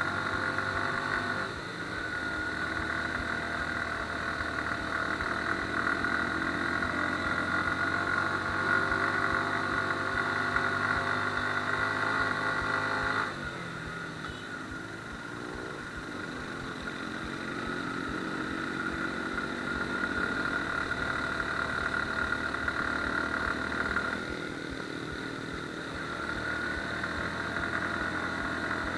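Suzuki Gixxer motorcycle's single-cylinder engine running under load on a climb. The throttle closes suddenly about halfway through and again a few seconds before the end, and each time the engine note builds back up.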